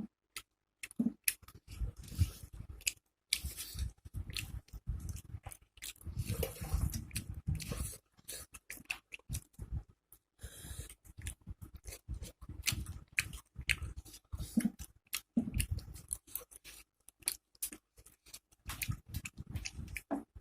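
Close-miked chewing and lip smacking of a person eating a rice meal, with many short, sharp, irregular mouth clicks and occasional crunches.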